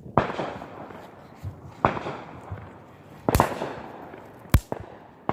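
Fireworks going off: four sharp bangs about a second and a half apart, with a crackling hiss between them.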